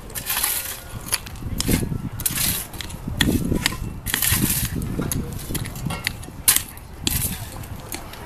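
Indistinct voices of people talking, with repeated short bursts of hissing noise.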